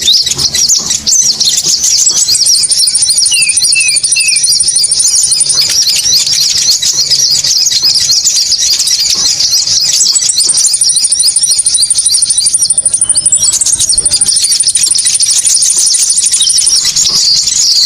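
Bird-lure recording for konin birds: a dense, unbroken twittering of rapid high-pitched chirps, with a very high, thin, fast trill laid over it for several seconds at a time, twice, and three short falling notes early on.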